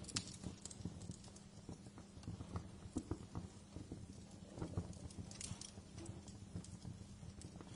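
Wood fire in a fireplace crackling, with irregular pops and snaps over a steady low rumble.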